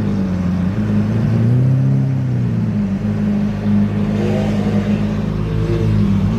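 Car engine running at low revs, a steady low hum that rises slightly in pitch and settles back about two seconds in.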